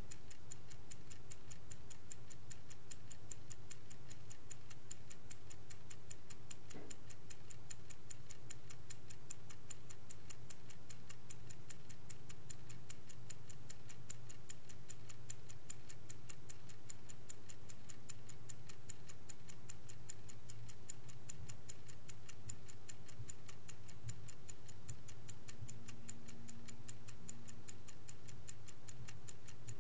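Vintage Swiss-made Angelus clock ticking, a fast, perfectly even run of light ticks at several a second, over a faint steady low hum.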